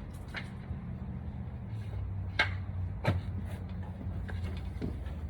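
A steady low mechanical hum, with two sharp knocks a little past the middle and a few fainter clicks.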